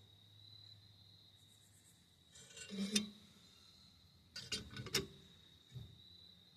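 Short bursts of metal clicking and clinking, twice, about two and a half and four and a half seconds in, as a C-clamp and tools are handled against a rusty brake caliper. A steady high cricket trill runs underneath.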